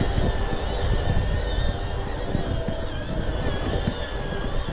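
Wind buffeting the microphone and tyre rumble from a bicycle riding along a road, as a gusty low rush. Above it is a faint steady whine of several tones from a small camera drone following close by.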